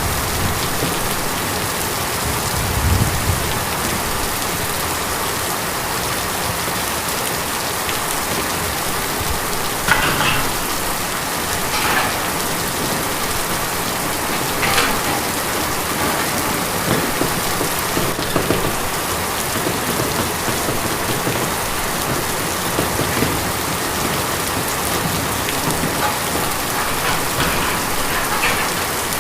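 Steady rain falling on tin, a dense even patter, with a few louder drops striking now and then.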